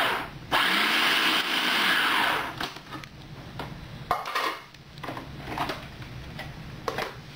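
Electric food grinder running as raw chicken is ground coarse, with a short break about half a second in, then cutting off after about two and a half seconds. A few light knocks and clicks follow.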